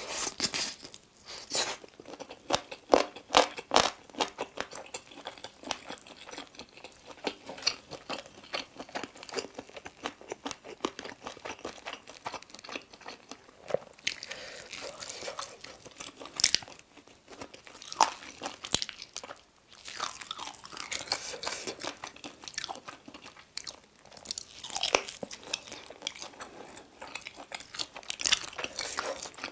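Mouth noises of someone eating sauced chicken wings and drumsticks: irregular crunching bites and chewing, with the loudest bites around three seconds in.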